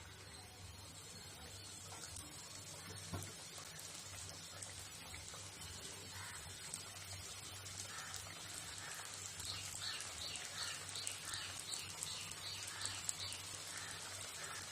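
Coated chicken pieces deep-frying in hot oil: a steady crackling sizzle with small spits that grows denser as the pieces cook.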